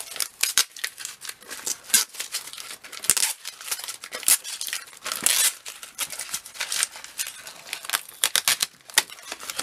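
Packaging crinkling and rustling as comic books are handled and sorted, a run of sharp little clicks and crackles with a longer rustle about halfway through.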